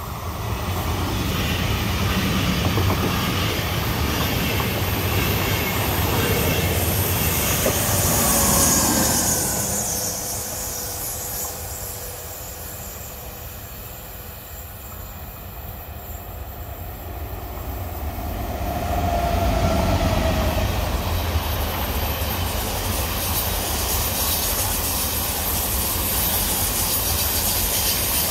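Electric passenger trains passing at speed on the line: a DB InterCity passing close at first, then a quieter stretch with a train far off, then a DB ICE 1 high-speed train passing close, loud again from about two-thirds of the way through.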